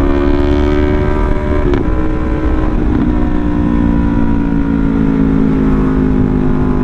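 Yamaha R3's 321 cc parallel-twin engine running at a steady riding pace, its pitch easing slowly down, with wind rumbling on the microphone.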